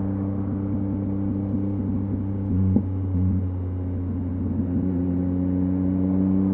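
2023 Yamaha MT-09's three-cylinder engine running through a LeoVince LV Race aftermarket exhaust, held at a steady engine speed with a deep, even note and a light irregular crackle through the middle seconds.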